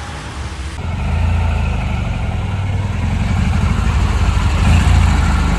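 Porsche engine running at low revs with a deep, pulsing exhaust note that slowly grows louder. A cut about a second in replaces a quieter car sound.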